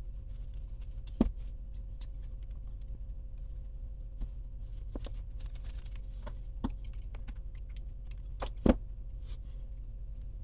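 Small metal parts and hand tools clicking and clinking as they are handled and set down, with two louder knocks, one about a second in and one near the end, over a steady low hum.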